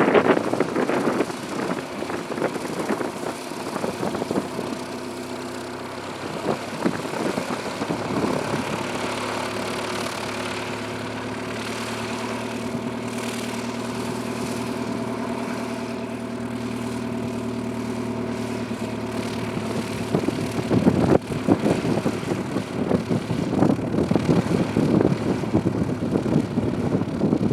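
Mooney M20J's four-cylinder Lycoming engine and propeller running at low taxi power, a steady even engine tone. Wind buffets the microphone at the start and again over the last quarter.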